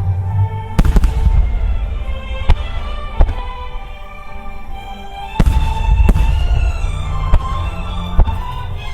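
Large aerial firework shells bursting, each a sharp crack with a deep boom, the heaviest about a second in and about five and a half seconds in, with several lighter bangs between, over music played for the show.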